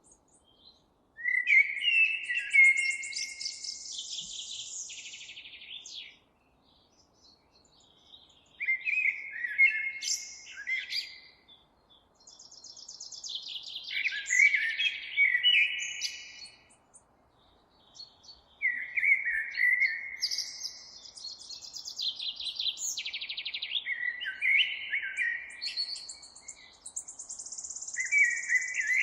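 A songbird singing long, complex songs of rapid trills and chirps, several phrases of a few seconds each with short pauses between them.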